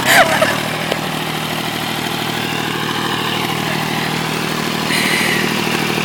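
Tractor engine running at a steady speed. A brief high voice is heard right at the start.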